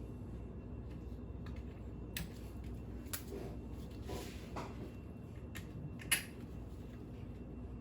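Light metal clicks and taps as washers are pulled off the stern drive's mounting studs, with one sharper click about six seconds in.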